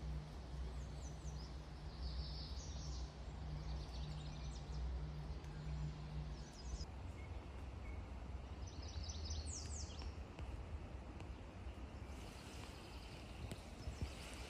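Small songbirds chirping in short clusters of high notes, several times over the first ten seconds or so, over a steady low rumble.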